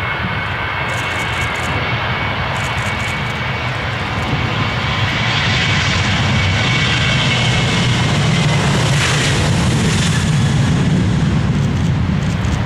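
Airliner engines growing louder as the aircraft passes close by, peaking about nine to ten seconds in and then easing slightly.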